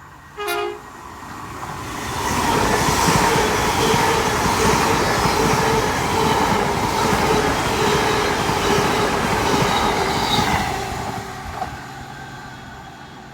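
A ten-car Great Western Railway Class 800 train, two units coupled, gives a short horn blast about half a second in, then passes at speed. It is loud for around nine seconds and fades away near the end.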